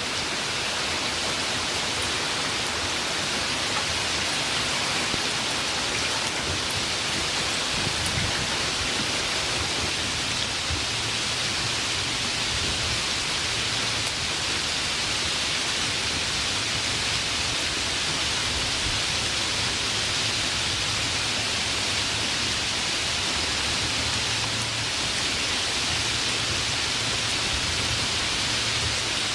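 Steady rain falling, an even hiss of heavy rain without thunder.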